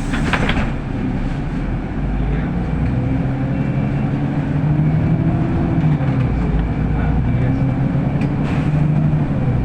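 Interior cabin noise of a city bus under way: a steady low engine and drivetrain drone with humming tones that rise and fall as it drives, and a few light rattles.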